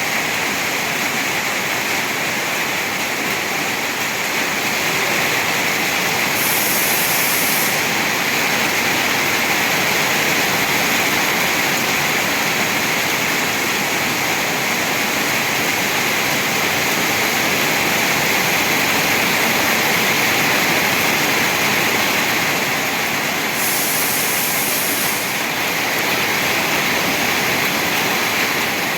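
Heavy rain pouring down in a steady, dense hiss, with two brief surges of sharper hiss, one about a quarter of the way in and one near the end.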